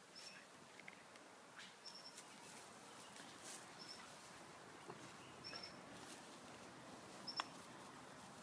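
Faint, high, short chirps from a bird, each two or three quick notes, repeating five times at about two-second intervals, over a quiet background with soft rustles.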